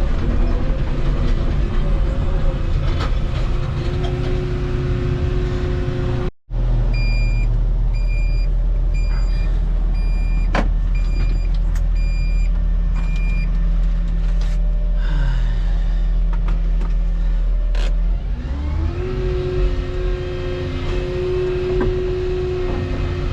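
Volvo 235EL excavator's diesel engine running steadily. About six seconds in, the sound drops out for a moment; then a warning alarm beeps about seven times at a steady pace. Later the engine's pitch rises and holds higher.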